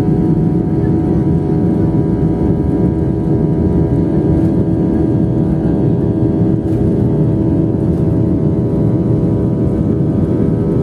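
Airliner's engines running at take-off: a loud, even low rumble with a steady hum of several tones that holds its pitch, and a few faint ticks.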